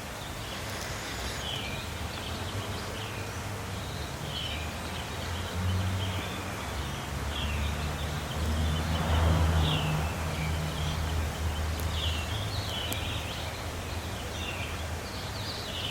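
Small birds chirping over and over in short notes, with a low engine rumble that swells midway and fades again.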